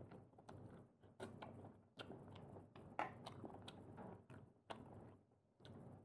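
Close-miked chewing and biting of seafood, prawns and clams: wet mouth sounds broken by sharp crunchy bites about every half second.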